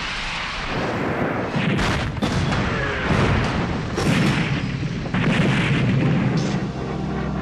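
Weapon explosions: a series of heavy blasts about a second apart over a continuous low rumble, as released missiles and bombs strike.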